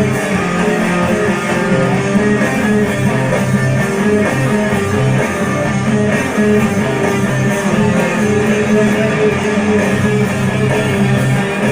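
Guitar playing a hard, riff-based rock song: steady, continuous chords without a break.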